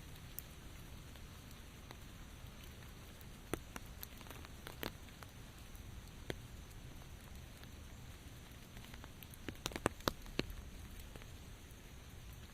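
Sparse raindrops tapping on a hard surface over a faint, steady low rumble of rain, with a quick cluster of louder drips about ten seconds in.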